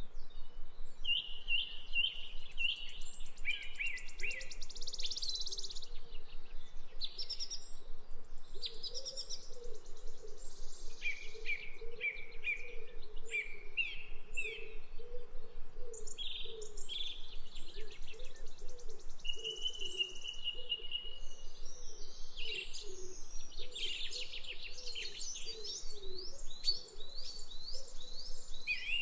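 Birds chirping and singing, with many short chirps and trills overlapping throughout.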